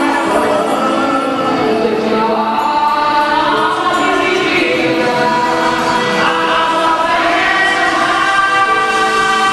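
Music with a group of voices singing together in long held notes.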